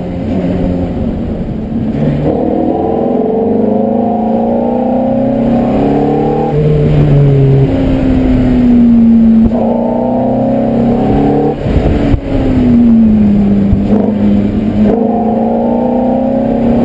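Ferrari F430's 4.3-litre V8, heard from the cabin, revving up hard three times with its pitch falling in between as the driver lifts off and brakes.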